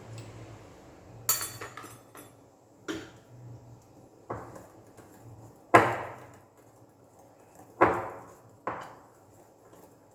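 Kitchen utensils and containers knocking against a mixing bowl: about six separate sharp knocks and clinks at uneven intervals, each with a brief ring, the loudest about six and eight seconds in.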